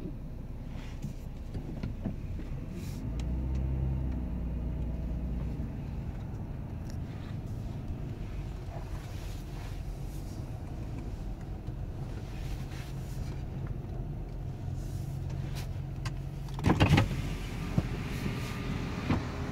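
Dodge Grand Caravan minivan running at low speed, heard from inside the cabin, with a steady low hum that swells for a few seconds about three seconds in. About three seconds before the end come a couple of sharp knocks, and after them more outside noise is heard.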